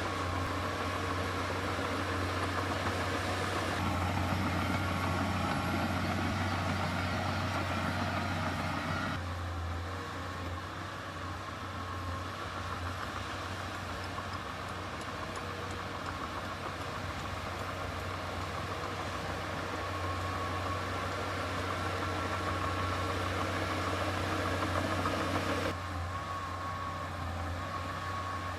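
Heavy diesel engine of earthmoving machinery running steadily, the sound changing abruptly a few times.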